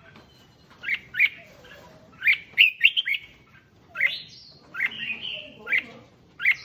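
Red-whiskered bulbul singing: a string of short, sharp whistled notes, some in quick pairs and triplets, with a longer warbling phrase about two-thirds of the way through.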